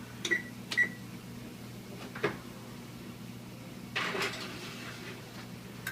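Oven being closed up: two light metallic clicks with a brief ring, a sharp knock about two seconds in, and a short scraping shuffle near four seconds. A steady low hum runs underneath.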